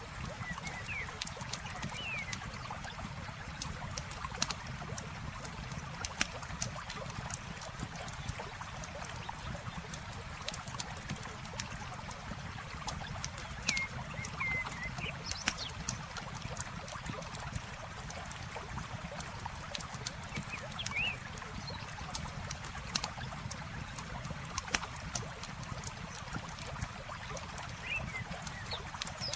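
Campfire crackling, with frequent sharp pops, over steady running water. A bird gives a few short chirps, about four times.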